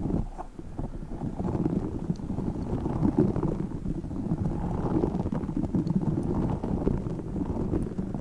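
A tiny spiky orbeez-filled squishy ball squeezed and rubbed close to the microphone, giving a steady, dense low rustling crackle full of small pops.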